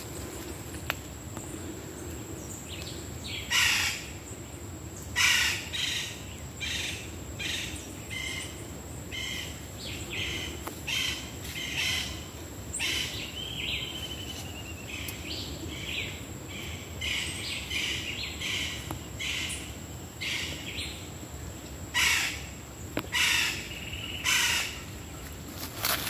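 Wild birds calling in forest trees: a long series of short repeated notes, about two a second, with a few louder harsh calls about four seconds in and again near the end. A steady high-pitched tone runs underneath.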